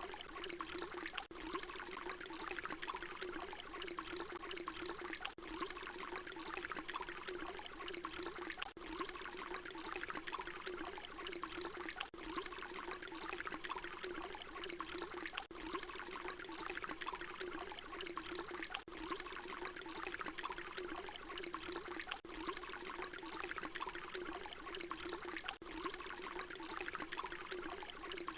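Water pouring in a steady, unchanging stream, with a constant low hollow tone under the splashing. A short recording is looped, with a brief dip where it repeats about every three and a half seconds.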